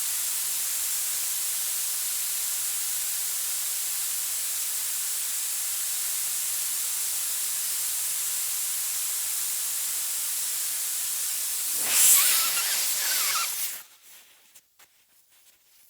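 Steady high hiss of water spraying from a hose. It swells louder about twelve seconds in, then cuts off abruptly a couple of seconds later.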